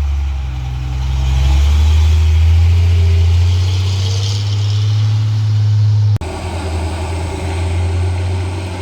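Motor vehicle engine running with a deep, steady drone. About six seconds in it cuts off abruptly and gives way to a different, lighter engine sound.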